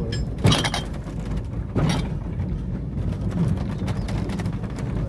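A train running slowly along the track, heard from the cab: a steady low rumble with a few sharp metallic clanks and knocks, about half a second in and just before two seconds in.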